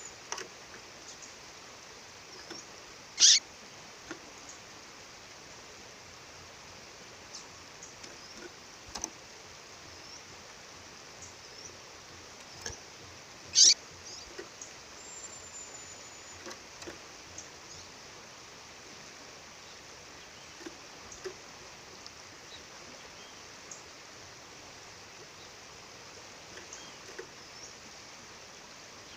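Female songbird calling: two loud, sharp, downward-sweeping call notes about ten seconds apart, with faint scattered chirps between, over the steady rush of a waterfall.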